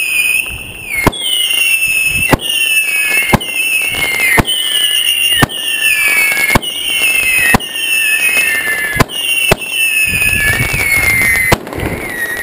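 Fireworks shooting off one after another, a sharp bang about once a second, each followed by a whistle that falls in pitch for about a second. The whistles fade near the end.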